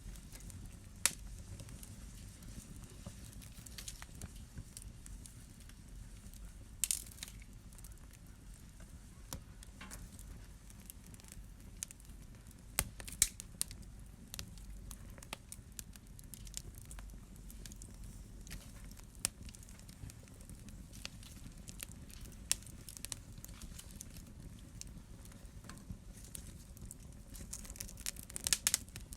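Fire in a fireplace crackling, with scattered sharp pops over a low steady rumble; the pops come more thickly near the end.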